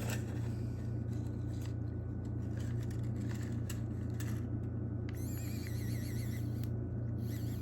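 A steady low hum with no pauses. From about five seconds in, a high tone joins it, wavering up and down several times a second.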